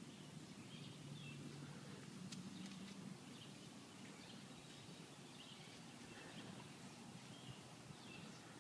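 Near silence outdoors: faint bird chirps about once a second over a low, quiet background hum.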